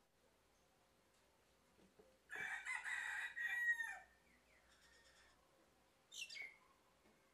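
A bird calling: one loud call about a second and a half long that falls in pitch at its end, then a short high call a couple of seconds later.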